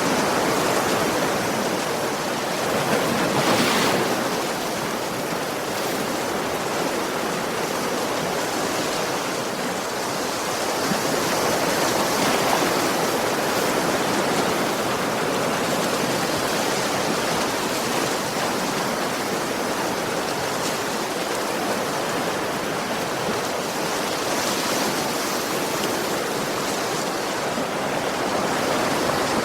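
Sea waves washing onto a beach: a continuous rush of surf that swells a little louder every several seconds as waves break.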